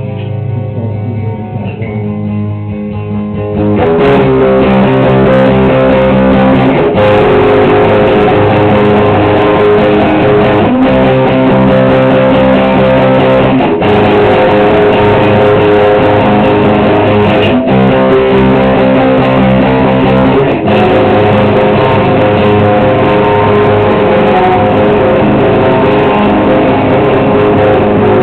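Live rock band playing: a quieter picked electric guitar passage, then about four seconds in the guitars and bass come in loud together and play a repeating phrase with brief breaks every three to four seconds.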